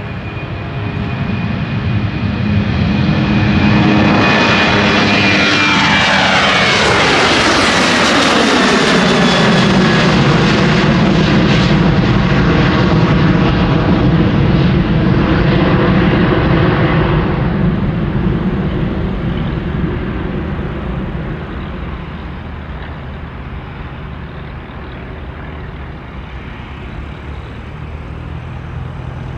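Airplane passing close by: engine noise builds over a few seconds and the whine of its engines drops in pitch as it goes past. A broad rumble then fades slowly away.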